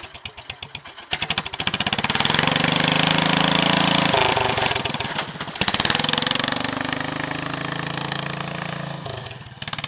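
Kohler 16 hp K-series single-cylinder engine of a modified Cub Cadet garden pulling tractor, idling with separate firing thumps, then throttled up hard about a second in. It eases off briefly around four seconds, revs up again, and runs steadily before dropping back near the end.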